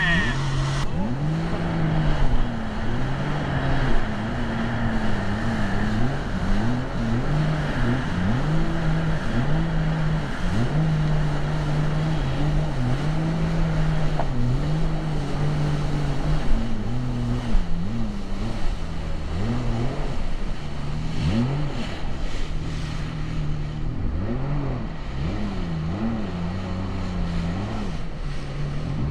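Jet ski engines running, their pitch rising and falling again and again as the throttle is opened and eased off, over a steadier engine note.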